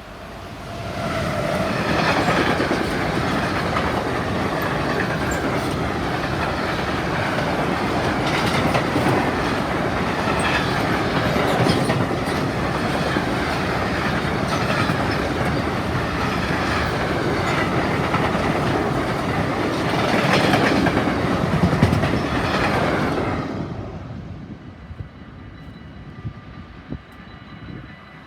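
A train passing at speed, its wheels clicking rhythmically over the rail joints. It builds quickly about a second in, holds for some twenty seconds, and falls away about 23 seconds in.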